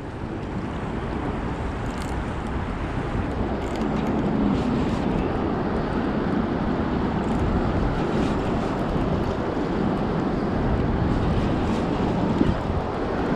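Steady rush of gusting wind on the microphone, with a few faint clicks.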